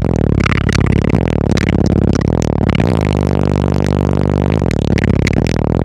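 Bass-heavy music played loud through a car audio system's two Ascendant Audio Chaos 12-inch subwoofers, driven by an American Bass VFL 4800.1D amplifier. Deep, dense bass notes dominate throughout.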